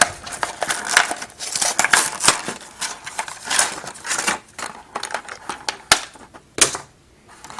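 Toy packaging being opened by hand: cardboard and plastic crinkling and scraping, with many irregular clicks and snaps that thin out near the end.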